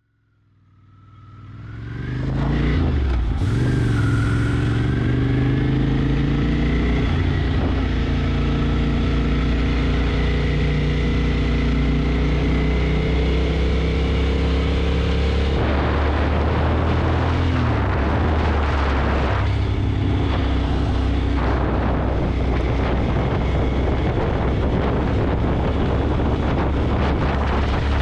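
Motorcycle engine running on the move, with a steady rushing noise, fading in over the first two seconds. The engine note glides in pitch over the first several seconds, and the sound changes abruptly about halfway through and again later.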